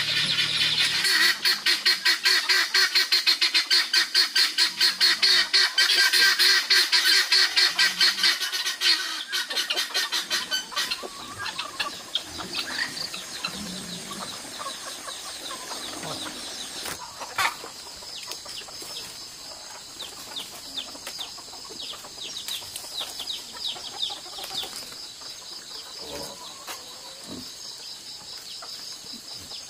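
Poultry, most like chickens, clucking and squawking: a loud, rapid run of repeated calls for about the first ten seconds, then quieter scattered calls.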